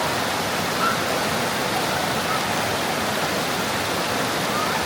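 Steady rushing of water from a rocky mountain stream and waterfall.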